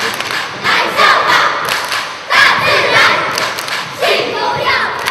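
A group of children singing and shouting loudly in unison during a song-and-dance exercise routine, with thuds of their feet jumping.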